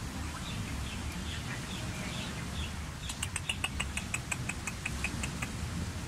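A bird chirping: a few short, falling chirps, then about halfway through a fast, even run of about a dozen sharp chirps, five or six a second, lasting a couple of seconds.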